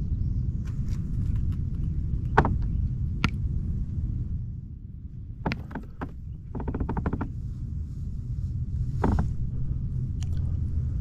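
Steady low wind rumble on the microphone, with scattered sharp knocks and a short rattling run about two-thirds in, from paddling and moving about in a plastic paddle kayak.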